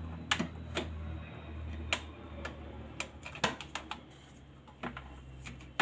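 Scattered sharp clicks and light knocks of kitchen things being handled and set down, over a low steady hum that fades about halfway through.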